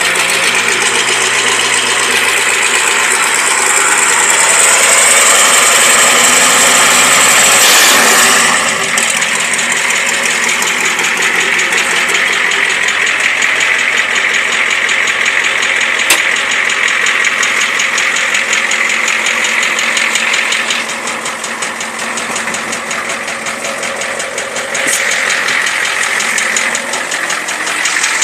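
1984 Ford F-250's 6.9-litre International Harvester V8 diesel running through a 5-inch straight pipe shortly after a cold start. It swells louder for a few seconds, drops back about eight seconds in, and is quieter for a stretch later on.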